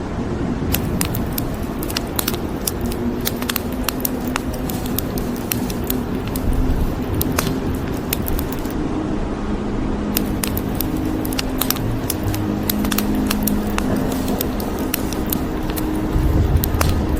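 Wood fire crackling, with frequent sharp pops and snaps over a steady hiss of rain. A low rumble swells near the end.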